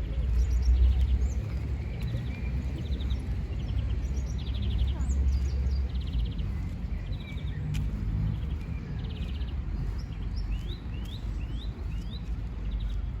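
Small songbirds chirping and trilling in short repeated bursts, with a few quick rising calls about two-thirds of the way in, over a steady low rumble.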